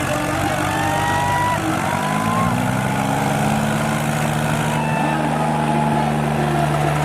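Tractor diesel engines pulling hard under load in a tractor tug-of-war. The engine note rises about two seconds in, then holds a steady pitch.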